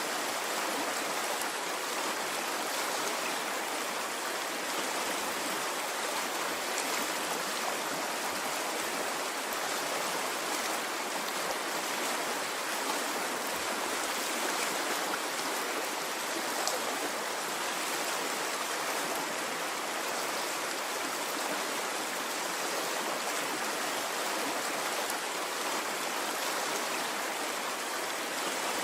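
Running water in a stream: a steady, even rush with no surges, flecked with a few faint small splashes.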